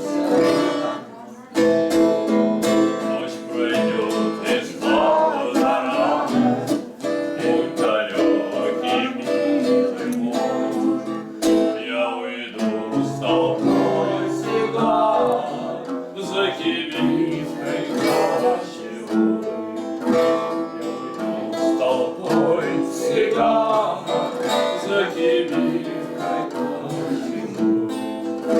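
Singing of a Russian romance accompanied by a strummed acoustic guitar.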